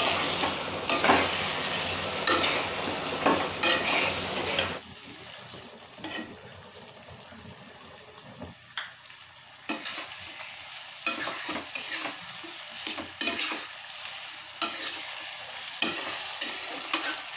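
Chicken curry sizzling in oil in a non-stick kadhai while a steel spatula stirs and scrapes through it in repeated strokes; the oil has separated from the masala. The sizzle drops sharply about five seconds in, and the scraping strokes pick up again from about ten seconds.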